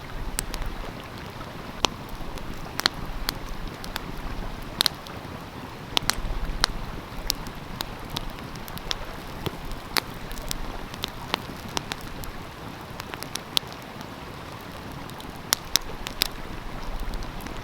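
Wood fire crackling, with sharp irregular pops scattered throughout, over the steady rush of a flowing stream.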